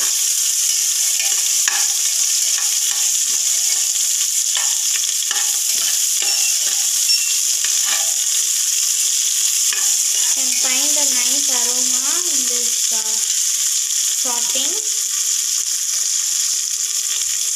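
Green chilies, garlic and ginger frying in hot gingelly oil in a pressure cooker, a steady sizzle, while a spoon stirs and scrapes them with frequent light clinks against the pot. The aromatics are being sautéed to drive off their raw smell.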